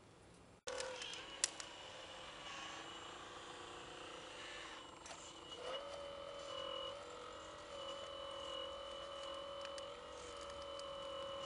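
Steady electric whine of motors in a 1:14.5 scale radio-controlled construction model, starting abruptly with a sharp click just after. About five seconds in the pitch steps up and holds, changing a little now and then as the model works.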